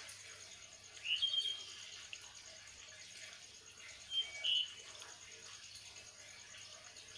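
A small bird chirping: one short call that rises and then holds about a second in, then two brief high chirps around four seconds in, over a faint steady hiss.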